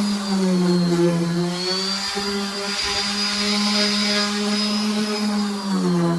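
Battery-powered power sander with 220-grit paper running on wood. The motor holds a steady hum with a high whine over it, its pitch sagging and recovering a couple of times as the load changes.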